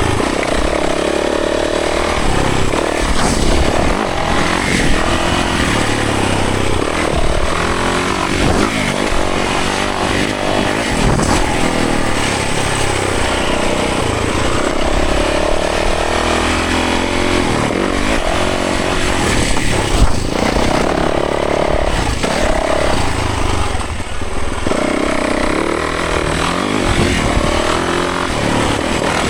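Yamaha 450 dirt bike's single-cylinder four-stroke engine running hard, its pitch rising and falling over and over as the throttle opens and closes.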